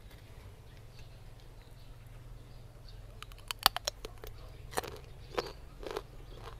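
Crisp bite into a slice of raw young green mango, a little past halfway, followed by crunchy chewing: a run of sharp crunches, one every half second to a second.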